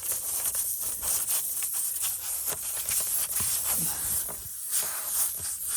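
A tire plug kit's steel reamer being twisted and pushed in and out of a nail hole through the tire's steel belt, giving irregular scraping and clicking over a steady hiss.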